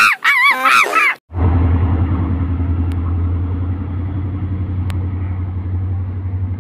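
About a second of high, arching comic calls breaks off abruptly. The steady low drone of an approaching train's diesel locomotive engine takes over, with two faint clicks.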